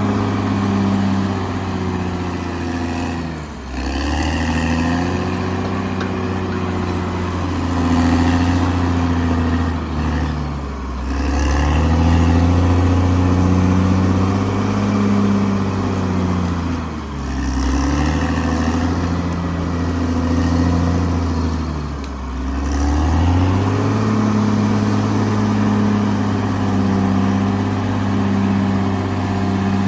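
Caterpillar D6R XL bulldozer's diesel engine running steadily, its pitch dropping briefly and recovering about four times.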